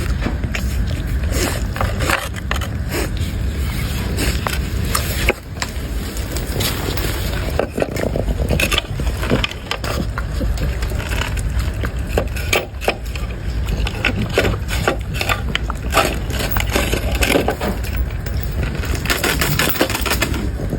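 A dog chewing and crunching hard food, with many irregular crunches and clicks over a steady low rumble.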